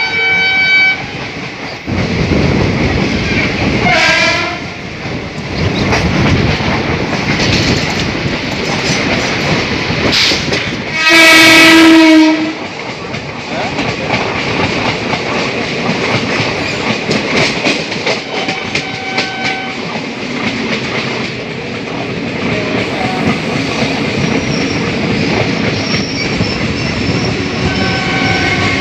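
A train running on the rails with wheels clacking over the rail joints. A short horn sounds about four seconds in, and a long, loud horn blast comes at about eleven seconds.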